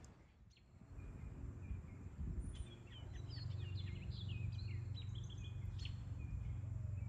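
Songbirds chirping in a quick run of short notes over a steady low background rumble of outdoor noise.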